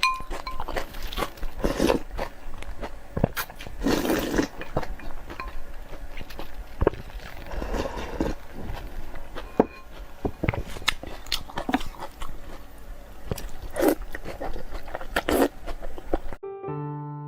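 A person chewing and biting food, with many sharp clicks and short noisy bites scattered irregularly. About a second before the end it cuts off suddenly to electric piano music.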